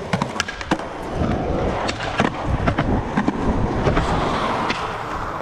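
Skateboard wheels rolling on pavement, a steady rumble that grows from about a second in, with many sharp clicks throughout.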